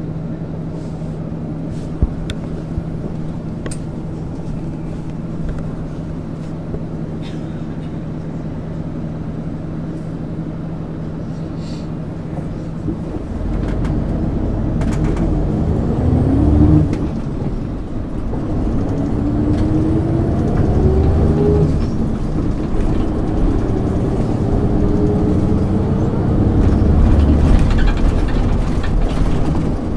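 1999 MAN ÜL 353 bus's diesel engine idling steadily, then, about 13 seconds in, pulling away and accelerating, its pitch rising several times as the bus gathers speed through the gears.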